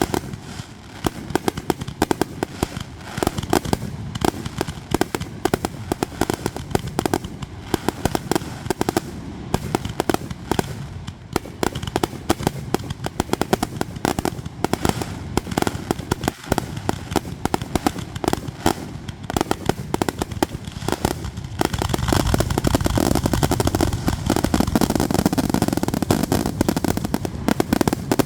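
Fireworks display: a rapid, continuous string of bangs and crackles that grows into a louder, denser barrage about three-quarters of the way through, typical of a finale.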